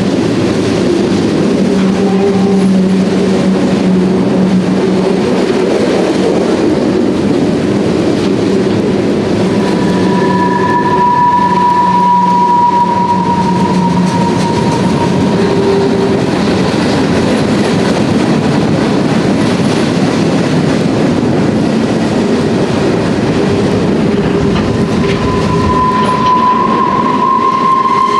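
Freight cars rolling past, a steady rumble and clatter of steel wheels on rail. A high steady wheel squeal comes in about ten seconds in, fades a few seconds later, and starts again near the end.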